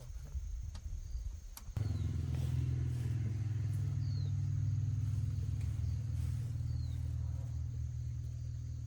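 A motor vehicle engine running steadily at idle, a low even drone that starts abruptly about two seconds in. A few faint short high chirps sound over it.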